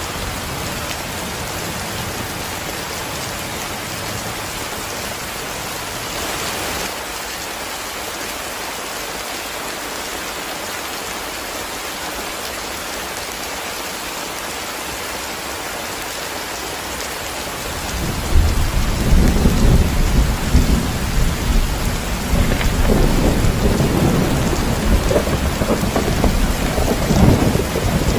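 Heavy rain falling steadily. About two-thirds of the way in, a long, low rolling rumble of thunder comes in and grows louder over the rain.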